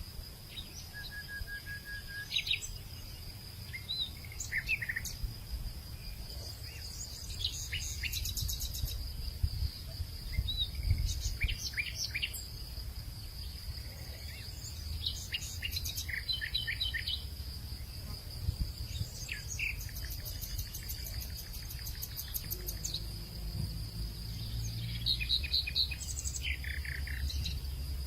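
Various birds chirping and calling in short bursts over a steady high-pitched insect drone, with fast insect trills at times and a low rumble underneath.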